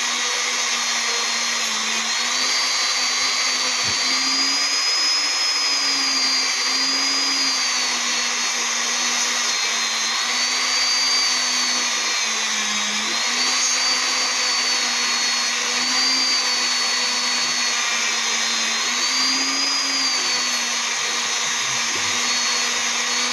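Small electric rotary tool fitted with a green abrasive pad, running steadily while polishing a meteorite; its pitch sags and recovers every few seconds as it is pressed against the stone.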